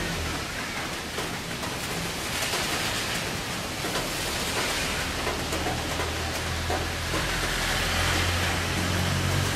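Steady rain falling, an even hiss. Underneath it is a low hum that grows louder near the end.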